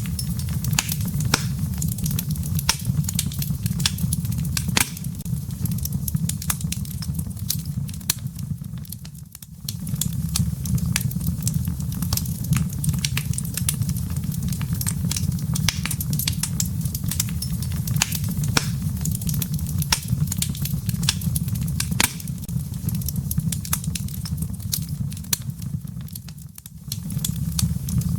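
Wood fire burning in a fireplace: dense, irregular crackling and popping of burning firewood over a steady low rumble of the flames. The sound dips briefly twice.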